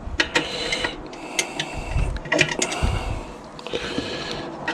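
Small screwdriver prying and scraping at a metal circlip on the autoclave's mechanism: irregular metallic clicks and scrapes, some with a short high ring.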